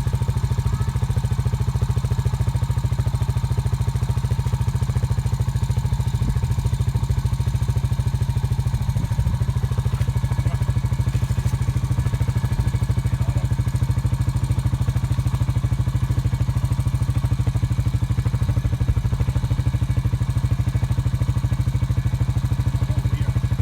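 Off-road vehicle engine running steadily at an even pitch, with no revving.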